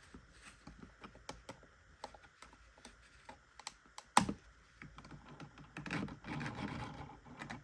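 Scattered small clicks and taps, with one sharper click about four seconds in and a rustle near the end: hands handling cloth and thread at a mini sewing machine, pulling the threads out after stitching. The machine's motor is not running.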